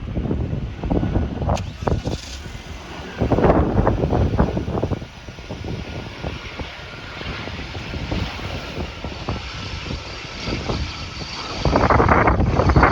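Strong wind buffeting the phone's microphone in uneven gusts, over the steady hiss of a distant aircraft's engines.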